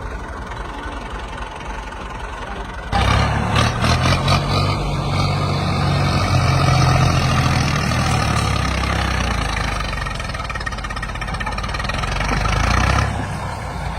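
Tractor engine running, suddenly much louder about three seconds in and staying loud for about ten seconds before dropping back to a lower level.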